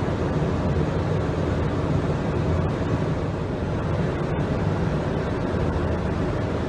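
Steady rumble and rush of airflow and jet engines heard on board an Airbus airliner on final approach, with no distinct events.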